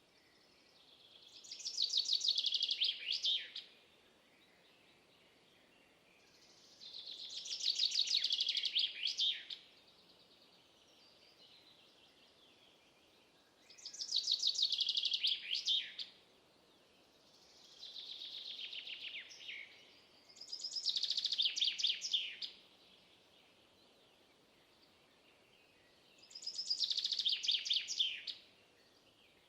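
A songbird singing the same high, rapid trilled phrase over and over, about two seconds long and ending in a few quick downward notes. It comes six times, with pauses of a few seconds between, and one phrase near the middle is softer.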